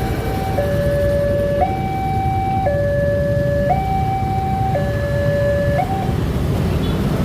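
Two-tone electronic warning alarm switching between a high and a low tone about once a second, stopping about six seconds in, over a steady low rumble that swells near the end.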